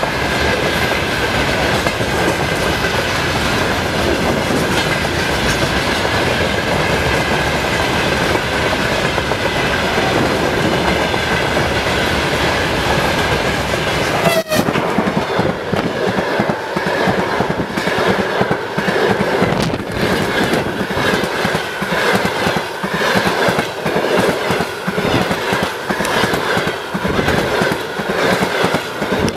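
Freight train rolling past behind a ChS4T electric locomotive, a loud steady rumble with a faint high whine. About halfway through the rumble drops off suddenly, and the wagons' wheels clack rhythmically over the rail joints.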